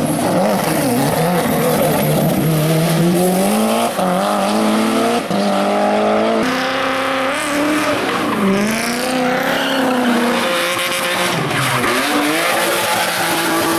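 Race car engine revving hard, its pitch climbing and dropping back again and again through gear changes and lifts off the throttle.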